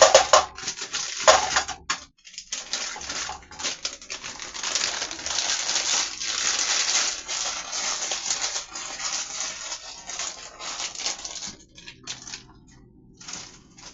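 A plastic bag of chicken nuggets being handled, with crinkling and rattling clicks. There are a couple of sharp clicks at the start, then a long stretch of dense crackling that dies down near the end.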